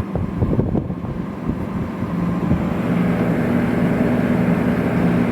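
Vintage Fedders window air conditioner running with a steady fan and motor hum. There are some irregular clicks and knocks in the first second or so. About two and a half seconds in, the hum gets a little louder and settles into a steady tone.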